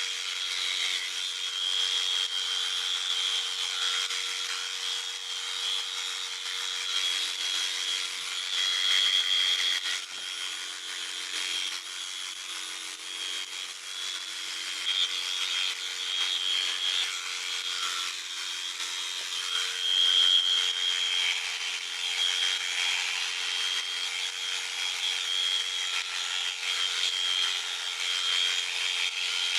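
Electric sheep shears running steadily as they cut through fleece: a continuous motor whine with a rasping cutting noise that swells and eases.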